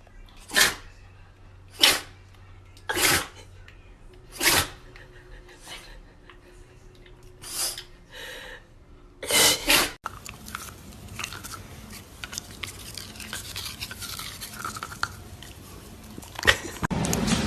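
A run of about eight short, sharp sneeze-like bursts, roughly one a second. About ten seconds in, these give way to a steady, noisy rustling that grows louder near the end.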